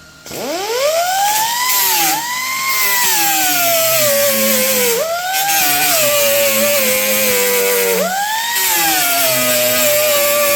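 Handheld power grinder spinning up about a quarter second in and grinding down tack welds on a steel hood patch panel, with a whine over a grinding hiss. The whine drops in pitch when the grinder is pressed into the metal and rises again when eased off, several times.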